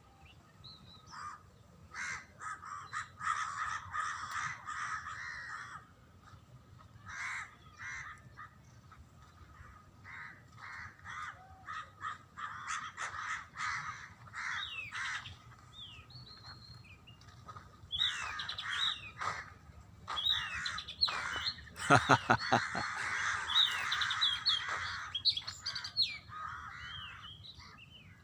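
Several birds calling: short harsh calls and chirps in irregular bursts, busiest and loudest about three quarters of the way through.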